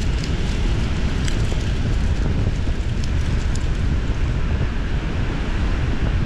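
Strong wind buffeting the microphone in a steady low rumble, with a few faint crackling ticks scattered through it.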